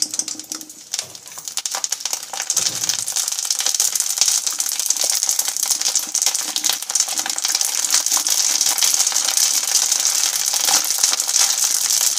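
Macaroni deep-frying in hot oil inside a wire-mesh strainer: a dense crackling sizzle that builds over the first few seconds and then holds steady as the pasta puffs up.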